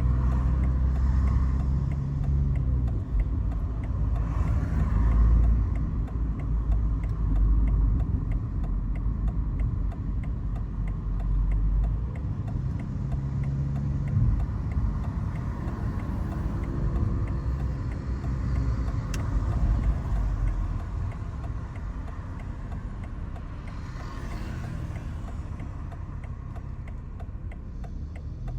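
BMW 540i's B58 turbocharged 3.0-litre inline-six with an ARP aftermarket exhaust, running while driving; the engine note rises and falls a few times, then settles quieter near the end.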